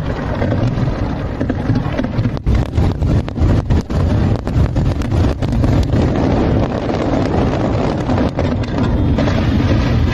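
Aerial fireworks bursting in rapid succession: many sharp bangs over a continuous low rumble, thickest through the middle of the stretch.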